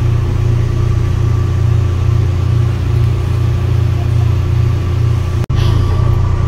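Steady low rumble and hum inside a moving passenger train car, with a couple of constant humming tones over it. It cuts out for an instant about five and a half seconds in.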